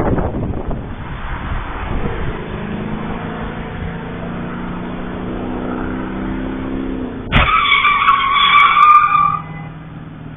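Car engine running with a steady hum, then a sudden loud tyre squeal lasting about two seconds as a car skids under hard braking, recorded through a dashcam.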